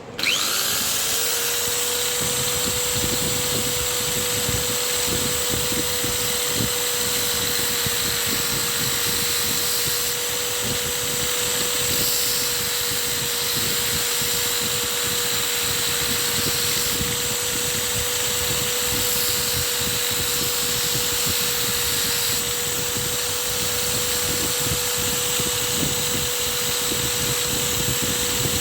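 Electric sharpening machine for a chisel switching on, spinning up within about a second, then running steadily with a constant whine and a noisy hiss.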